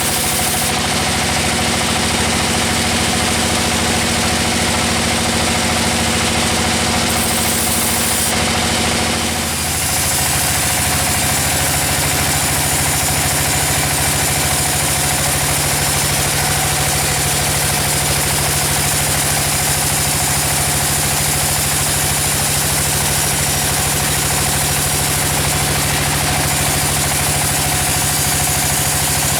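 Engine-driven sawmill machinery running steadily, with a shift in its tone about nine to ten seconds in.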